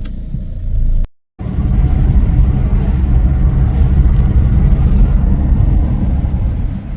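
A steady, loud low rumble that cuts out completely for a moment just after a second in, then comes back a little louder.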